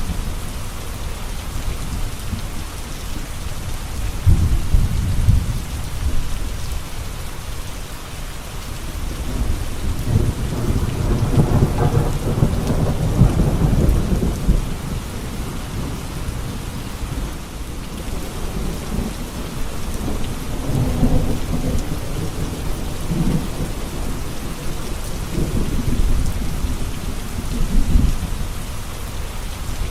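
Steady rain falling, with rolls of thunder rumbling low several times; the longest roll comes about ten seconds in and lasts around five seconds.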